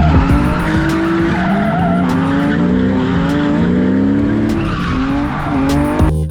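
BMW E46 drift car's engine revving up and down over and over while its tyres squeal and skid in a slide; the sound cuts off suddenly near the end.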